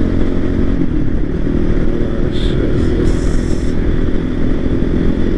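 Voge 300 Rally's single-cylinder engine running steadily while riding, with wind and road noise.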